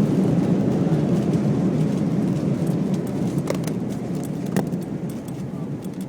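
Airbus A319 cabin rumble during the landing rollout: steady engine and runway noise that slowly dies down as the airliner decelerates, with two light rattles or clicks in the middle.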